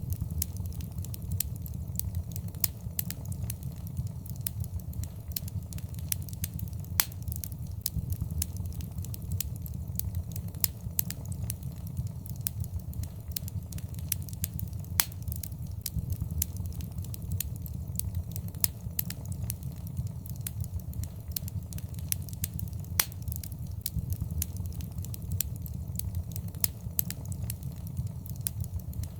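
Fire crackling in a fireplace: a steady low rumble of flames with frequent sharp crackles and a few louder pops.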